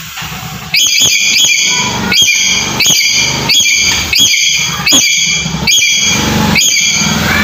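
A lory giving a rapid series of harsh, shrill screeching calls, about one and a half a second, starting about a second in.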